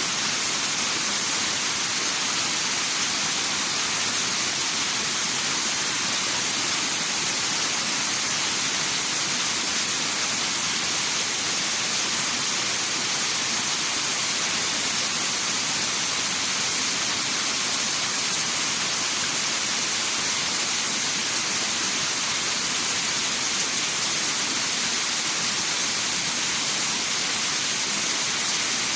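Waterfall rushing: a steady, unbroken hiss of falling water that holds the same level throughout.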